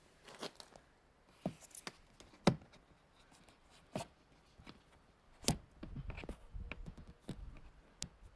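Scattered clicks and knocks of things being handled, the loudest two about two and a half and five and a half seconds in, with a brief low rumble about six seconds in. No engine is running.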